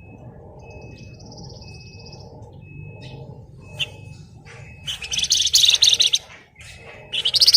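Flamboyan (Javan fulvetta) singing: short thin whistled notes repeated about once a second and a high buzzy trill, then loud, fast rattling bursts of song ('ngebren') about five seconds in and again near the end.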